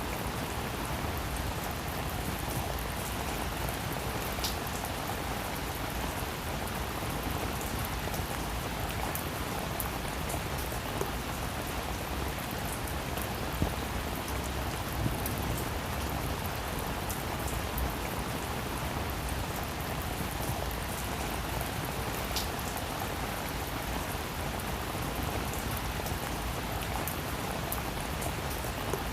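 Steady rain falling on a roof, an even hiss of drops with a few louder individual drop ticks.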